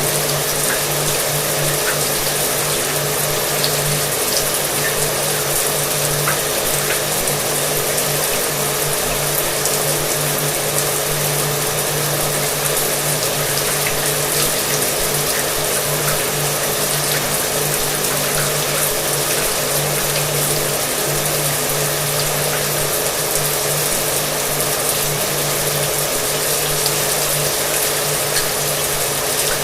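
Shower water running steadily, a constant even hiss, with a hair dryer running behind it as a steady motor hum.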